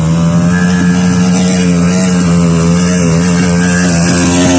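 Trail motorbike engine running hard at high, steady revs close to the microphone, its pitch holding nearly constant.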